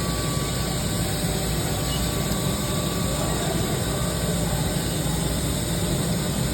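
Steady low hum and hiss of a powered-up Haas ST-20Y CNC lathe standing by in a machine shop, with no distinct clicks or changes.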